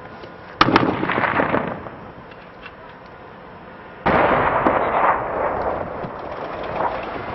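Two heavy blasts about three and a half seconds apart in a firefight, each a sudden boom followed by a rolling rumble; the second rumbles on longer.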